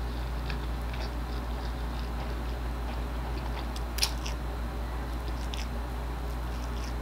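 Close-up chewing of a mouthful of instant noodles: faint soft, wet mouth clicks, with one sharper click about four seconds in, over a steady low hum.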